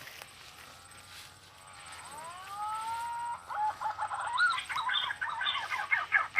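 A bird calling. A single note slides up and is held from about two seconds in, then breaks into a fast run of warbling notes until near the end.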